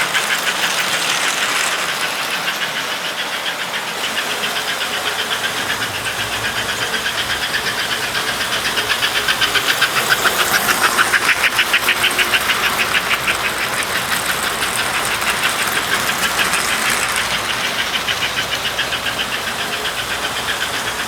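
Model trains running around the layout's loops of track, with a fast, steady clatter of wheels clicking over the rail joints. It grows louder about the middle.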